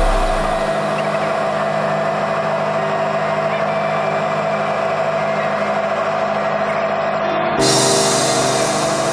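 Helicopter running steadily, a constant hum holding a fixed mid-pitched tone over a noisy wash. Near the end the sound shifts abruptly to a brighter, hissier mix.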